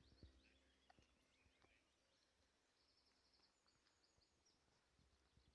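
Faint, distant birdsong: quick, high twittering notes from small birds. A few soft knocks are heard too.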